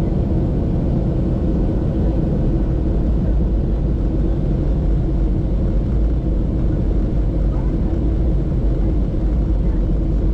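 Steady low rumble of a moving vehicle, with a constant hum and no breaks or changes in level.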